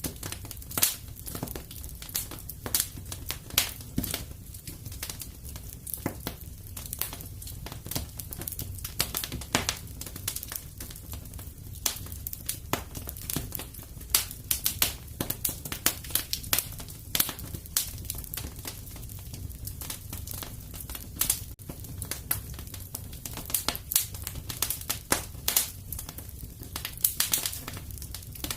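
Fireplace fire crackling: a constant run of irregular sharp pops and snaps, some much louder than the rest, over a steady low rumble.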